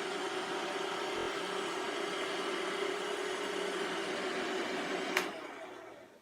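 iRobot Roomba 545 robot vacuum running steadily with its vacuum motor and brushes as it returns to its charging dock. About five seconds in there is a sharp click, and the motor winds down as the Roomba settles onto the dock and starts charging.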